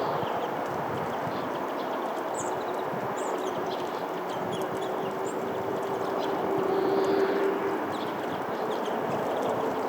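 Small birds giving short high calls at a feeder over a constant dense clatter, with a steady hum for a few seconds in the second half.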